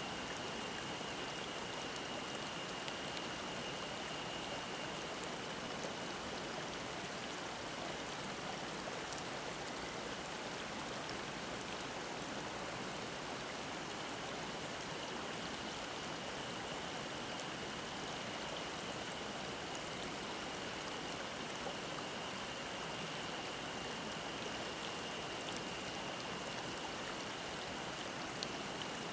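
Mountain stream babbling in a steady, even rush of water. A cicada's continuous high-pitched drone runs through it, weakening for a few seconds around the middle.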